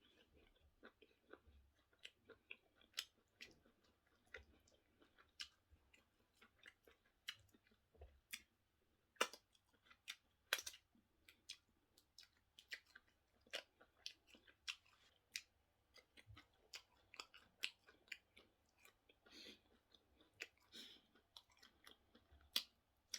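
Close-miked chewing and wet mouth clicks of someone eating plantain with sauce: irregular short smacks, a few a second.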